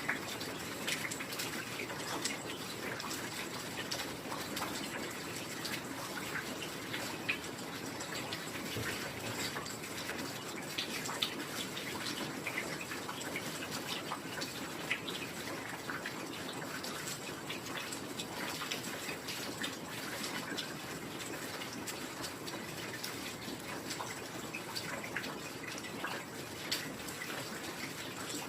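Steady heavy rain, a dense even hiss with many scattered close drips and patters.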